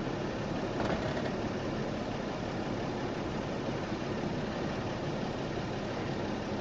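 Jeep Cherokee's engine running steadily at low revs as it crawls down a rock ledge, under a steady hiss.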